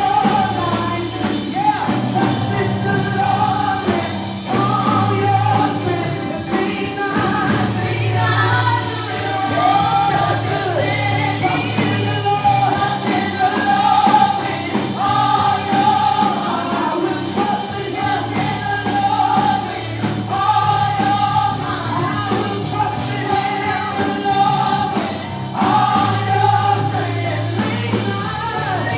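Gospel choir singing with instrumental accompaniment, in sustained phrases over steady bass notes.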